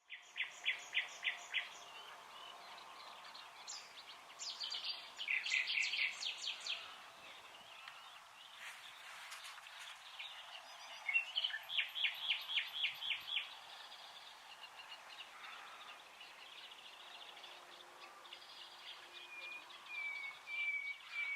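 Wild songbirds singing: several separate phrases of quick repeated high notes, each phrase lasting a second or two, over a faint steady background hiss.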